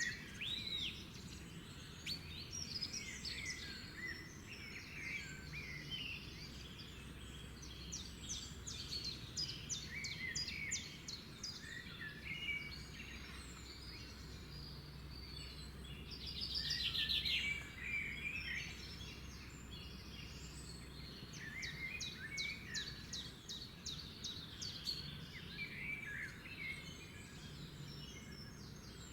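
Several songbirds singing and calling together, a busy mix of short chirps and trills. The loudest is a fast trill about two-thirds of the way through. A faint steady low rumble lies underneath.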